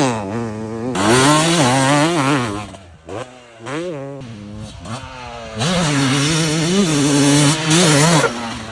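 Two-stroke motocross bike engine revving hard on the track. The pitch rises and falls as the throttle is opened and shut through the gears, with a brief roll-off about three seconds in before it goes back to full throttle.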